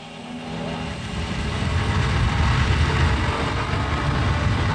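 Suzuki GSX-R 600 inline-four engine pulling as the bike accelerates, with engine and rushing noise growing louder over the first two seconds and then holding steady.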